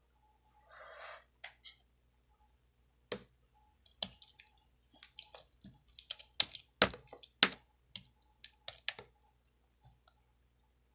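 Irregular sharp clicks and taps, bunched most densely in the middle of the stretch, with a brief soft rustle about a second in.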